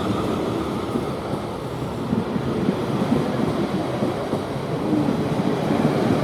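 South Western Railway Class 444 electric multiple unit departing and running past, with a steady rumble of wheels and traction equipment.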